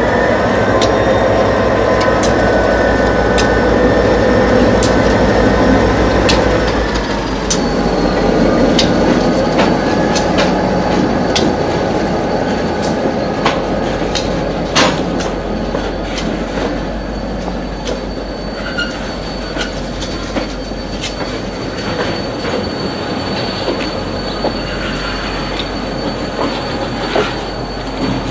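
A diesel freight train passes close by at low speed. For the first several seconds the locomotive's engine drones, and then it fades as the hopper cars roll past. The wheels click sharply and irregularly over the rail joints, with a thin, steady squeal.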